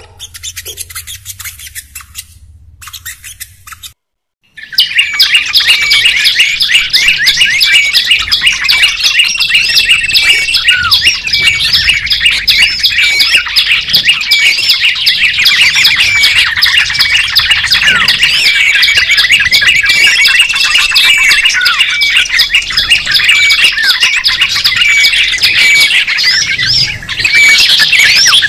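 Sogok ontong (burung kelapa) bird song: fast, high-pitched chirping and twittering with quick rising and falling notes. It is faint at first, breaks off for a moment about four seconds in, then comes back loud and dense for the rest.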